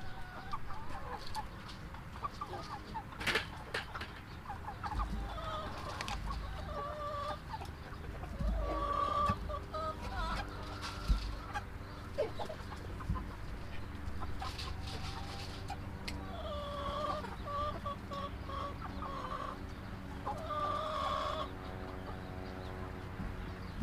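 A crowded flock of Cornish Cross meat chickens clucking, with many short overlapping calls.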